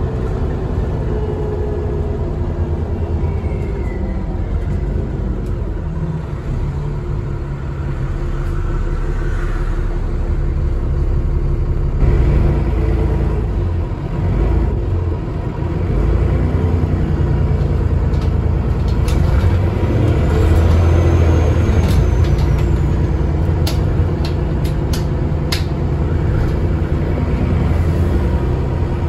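Diesel engine of an Alexander ALX400 double-decker bus heard from on board while driving, a steady low drone that rises and falls with the throttle, with a faint high turbo whistle now and then. A run of sharp clicks and rattles comes in the second half.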